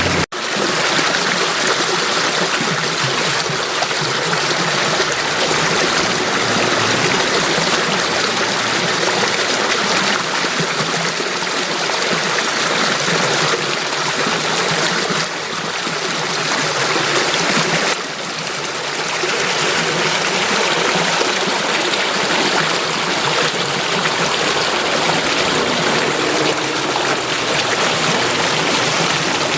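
Water in a stream flowing and trickling with a steady rush. It drops out for a moment just after the start, and its tone shifts slightly twice, about halfway through and again a few seconds later.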